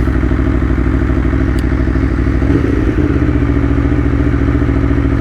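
Aprilia Tuono V4 1100's V4 engine, fitted with an aftermarket full exhaust, running at steady revs, with a brief small rise in pitch about two and a half seconds in before it settles again.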